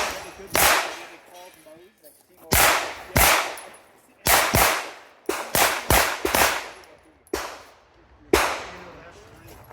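Pistol shots fired on a timed practical-shooting stage, about ten in all, each followed by a short echo. One shot comes near the start, then a pause of about two seconds, then single shots and a quick string of four around the middle.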